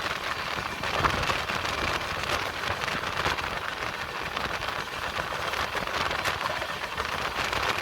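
Steady rushing noise with scattered irregular crackles: monsoon rain and wind on a moving train.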